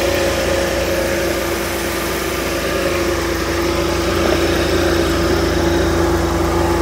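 Mercedes-Benz engine idling smoothly, with a steady hum from its compressor over the running engine.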